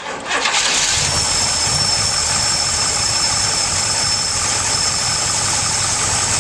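Pontiac 455 V8 fed E85 through FiTech fuel injection, cold-starting at about 35°F. It fires at once and within a second settles into steady running, with a thin high whine above the engine.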